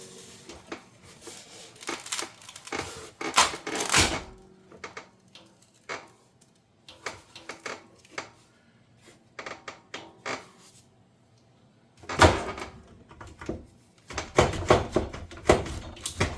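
Hand work on a dishwasher door: irregular clicks, knocks and scraping of plastic parts being pried and worked loose, with a short lull and then a denser run of scraping and knocking near the end.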